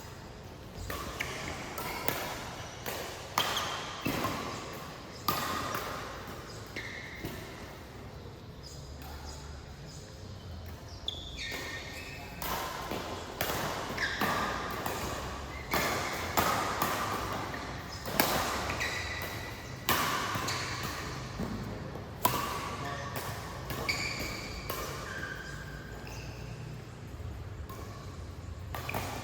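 Badminton rally: sharp smacks of rackets hitting the shuttlecock at irregular intervals, with short high squeaks of court shoes on the floor between hits.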